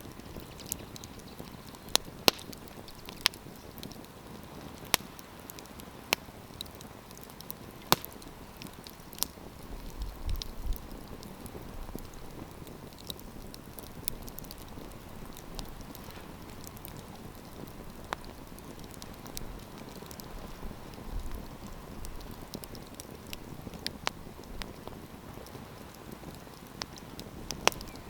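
Wood campfire crackling: a steady hiss of burning with sharp pops and snaps at irregular intervals, several of them loud within the first ten seconds.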